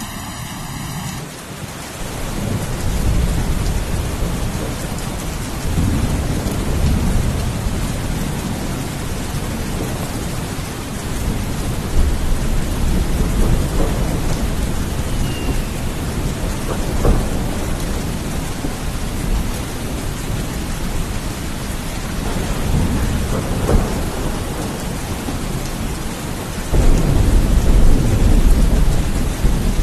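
Steady heavy rain with thunder rumbling repeatedly beneath it. The rain comes in about a second in, and the loudest roll of thunder sets in suddenly near the end.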